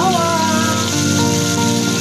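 Sliced onions sizzling in hot oil in a wok, with background music over it.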